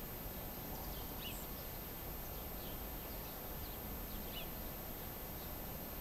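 Faint, short bird chirps every second or so over a steady low outdoor background rumble.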